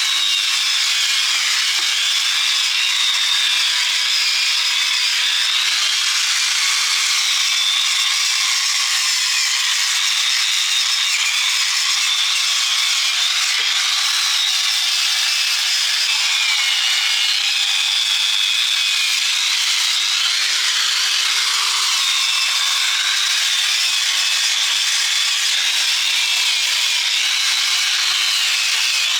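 Handheld power tool grinding steel. It runs continuously as a dense, hissing grind, and its motor pitch wavers up and down as the load changes.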